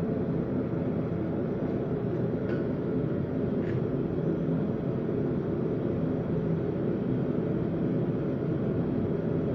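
A forge running, a steady low rushing noise, with two faint light clinks about two and a half and nearly four seconds in.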